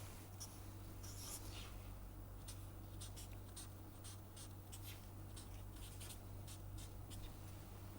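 Faint pen strokes: many short scratches as a graph is drawn, over a steady low electrical hum.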